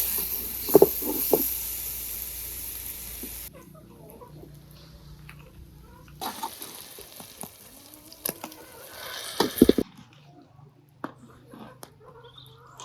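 Cooking sounds in short cut-together shots: a steady hiss, like food sizzling in a pan, that starts and stops abruptly twice, with scattered clicks and knocks of utensils and quieter stretches between.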